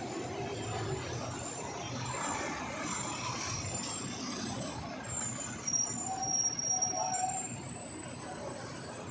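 A vehicle running steadily, with a constant low rumble.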